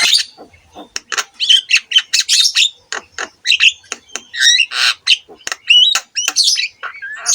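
Javan myna (jalak kebo) singing without pause: a fast, varied run of harsh squawks and chatter mixed with short whistled notes that glide up and down.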